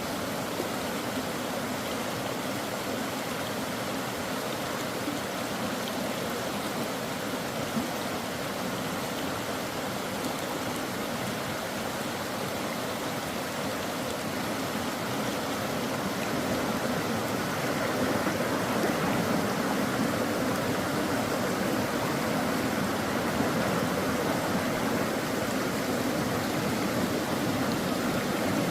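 Mountain stream water rushing steadily over rocks, growing a little louder about halfway through.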